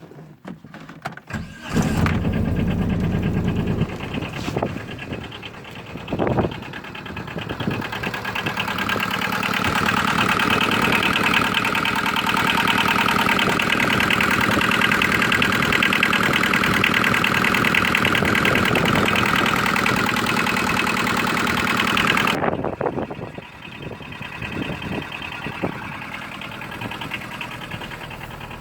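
Small two-cylinder Yanmar diesel engine of a microcar starting up about two seconds in, then running steadily and growing louder for a long stretch before the sound drops abruptly to a quieter running note near the end.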